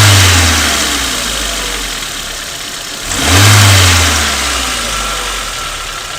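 Renault K7M 1.6 eight-valve petrol engine revved briefly twice, each time falling slowly back toward idle. A diesel-like chatter appears as the revs drop, which the owner takes for valve noise: a loose valve or worn rocker adjusting screws.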